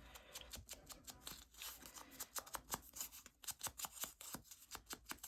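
Paper being handled at close range: a run of small irregular crackles and clicks as sheets are moved and peeled.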